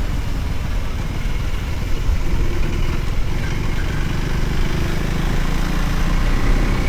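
Motorcycle engine running steadily while riding, with road and air noise around it.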